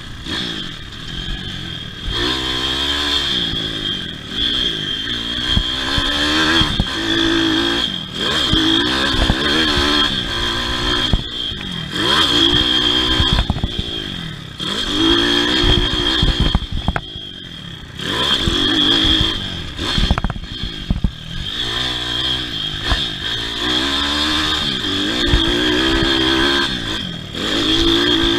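Pitbike motocross engines revving up and dropping back again and again as the bikes accelerate and shut off through the track, with a steady high whine over the top and scattered knocks and rattles.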